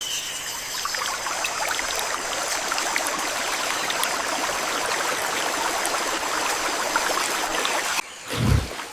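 Rushing stream water, a steady wash that cuts off abruptly about a second before the end, followed by a loud, deep, low thud-like sound.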